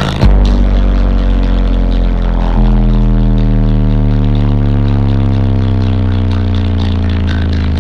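Very loud bass from six 18-inch car subwoofers playing a deep held tone that steps up in pitch about two and a half seconds in, then slowly rises.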